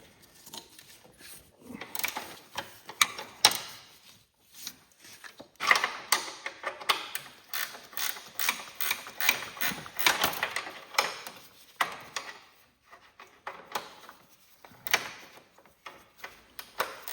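Ratchet wrench with a 17 mm socket clicking in bursts of quick back-and-forth strokes as a bolt is worked loose, with pauses between bursts.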